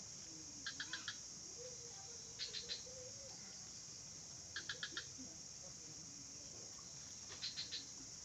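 A small bird repeating a short call of three or four quick, high notes, four times about two seconds apart, over a steady high-pitched drone of insects.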